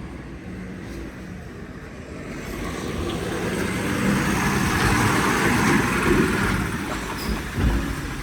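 A large vehicle's engine rumbling, growing louder from about two seconds in and loudest around the middle, as it draws near.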